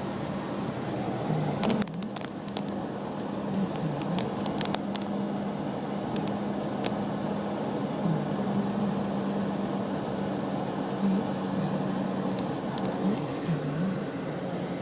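Car running at low speed, heard from inside the cabin: a steady engine hum that dips briefly in pitch now and then, over road noise, with scattered light clicks a couple of seconds in and again near the end.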